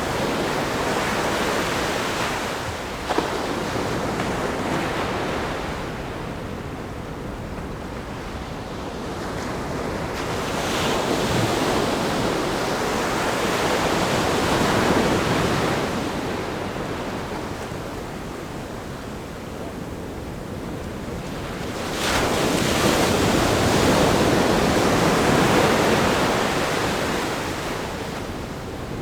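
Ocean surf breaking on a rock groin and a sandy beach: a continuous rush of water that swells and ebbs three times. The last surge starts suddenly about three-quarters of the way through.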